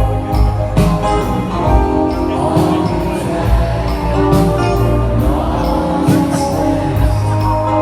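Live band music from a concert: electric guitar and other pitched instruments over a steady bass line and a drum beat of about two and a half hits a second.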